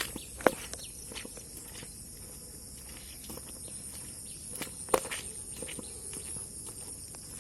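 Outdoor ambience after rain: a steady high-pitched insect trill with scattered sharp clicks or knocks. Two louder clicks come about half a second in and near five seconds.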